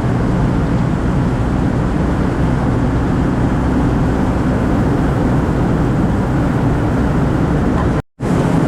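Steady engine and tyre road noise of a 2004 Ford Focus cruising at highway speed. The sound cuts out for a split second near the end.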